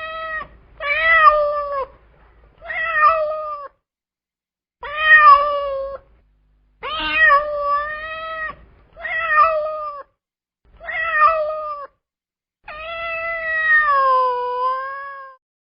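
A domestic cat meowing loudly and repeatedly, about seven separate meows of around a second each. The last one is long and drawn out, with its pitch dropping near the end.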